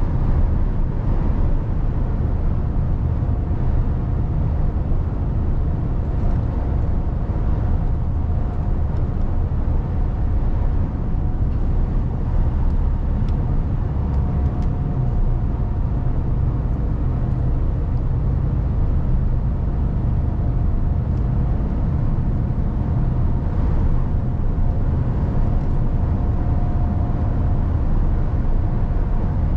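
Mercedes-Benz Actros truck on the move, heard from the cab: a steady low drone of diesel engine and road noise, with a faint high whine that comes and goes.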